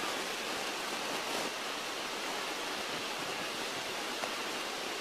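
Steady hiss of cockpit noise in a Beechcraft Musketeer in flight, engine and airflow blended into an even rush with no clear engine note. The engine is at reduced power with carb heat on.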